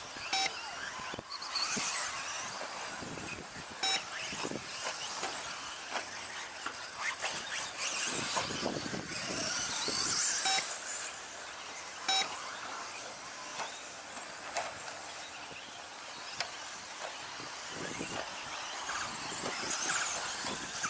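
Radio-controlled 2WD stadium trucks racing around a track, motors whining up and down as they accelerate and brake, with tyres scrabbling. A few short beeps sound now and then over the cars.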